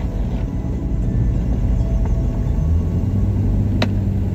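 Inside the cab of a 2007 Toyota FJ Cruiser driving in four-wheel drive on a snow-covered road: a steady low rumble of the 4.0-litre V6 and tyres, the engine hum firming up a little past halfway. A single sharp click comes near the end.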